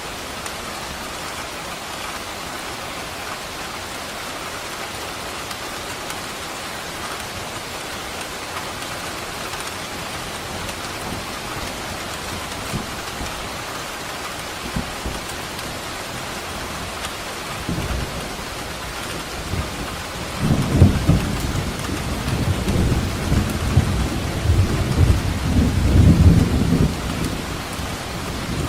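Steady rain falling, with a rolling thunder rumble that starts about two-thirds of the way in and runs loud for several seconds before easing near the end.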